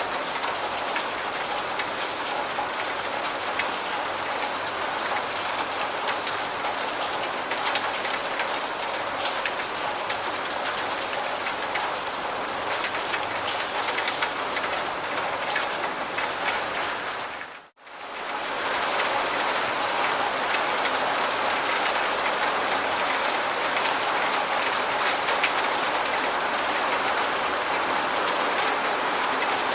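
Steady heavy rain falling, a dense patter of drops. About 18 seconds in it fades out for a moment and comes straight back, at a joint in the recording.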